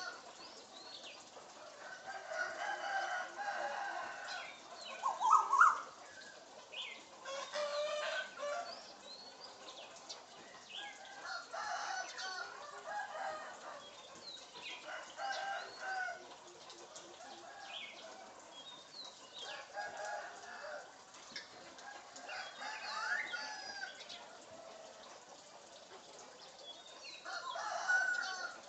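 Bird calls in short bursts every few seconds, chicken-like clucking and crowing, with a couple of quick rising whistles.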